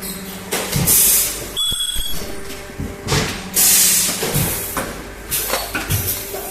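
Plastic welding machine running through its cycles: loud bursts of compressed-air hiss, about one every three seconds, between clicks, clunks and stretches of low machine hum.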